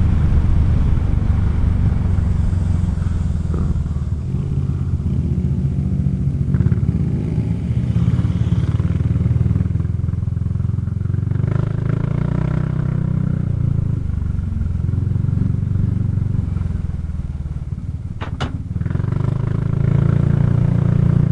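Kymco Xciting 400i maxi-scooter's single-cylinder engine running at road speed, its drone rising and falling in pitch as the throttle changes. A brief sharp click comes near the end.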